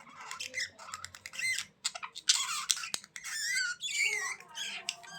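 Budgerigars chattering and squawking: a rapid run of harsh calls, warbled chirps and clicks, busiest from about two seconds in.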